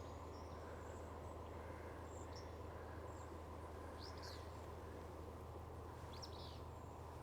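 Faint marsh ambience with a steady low hum, and a songbird calling in the distance: three short, high calls about two seconds apart.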